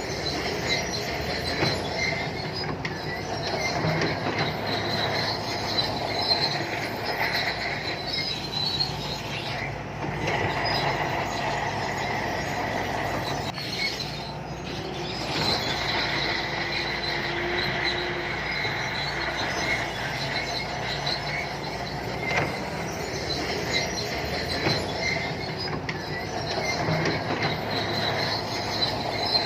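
Shantui crawler bulldozer's steel tracks squealing and clanking continuously as it moves, over the steady low drone of its diesel engine.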